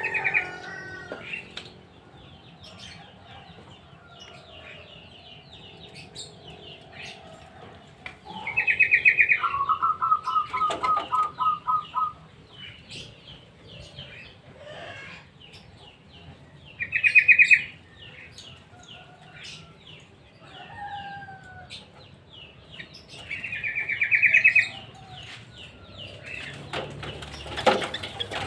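Caged sooty-headed bulbuls and other small birds calling in a mini aviary: scattered short chirps, with loud rapid trills three times and a slower pulsed trill of about a dozen notes. A sharp knock near the end.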